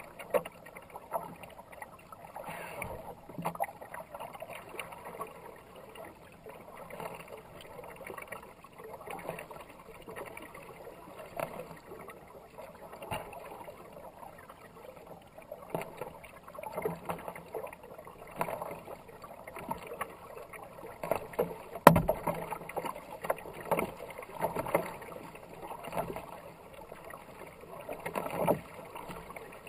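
Kayak paddle strokes splashing and swishing through fast-moving river water, swelling and fading about once a second. One sharp knock about two-thirds of the way through.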